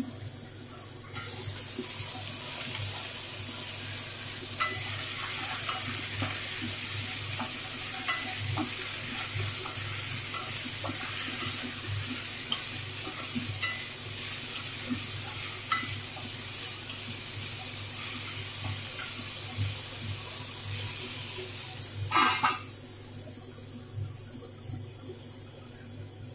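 Potato sticks frying in hot mustard oil in a stainless steel kadai: a steady sizzle that gets louder about a second in as the lid comes off, with the clicks and scrapes of a spatula stirring the potatoes. Near the end the metal lid clatters back onto the pan and the sizzle turns muffled.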